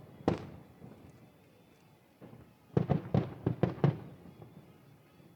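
Aerial fireworks shells bursting in the sky: one bang just after the start, then a quick string of about half a dozen bangs around three to four seconds in, each trailing off in a short rumble.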